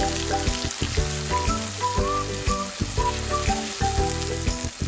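Minced chicken, onion and tomatoes sizzling steadily in a nonstick frying pan, stirred with a wooden spatula as tomato puree is worked in. Background music with a melody and bass line plays over the sizzling.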